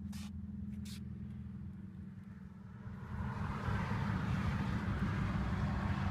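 Steady low hum of the car heard inside the cabin, with two short clicks near the start. From about three seconds in, a louder, steady rushing noise comes in.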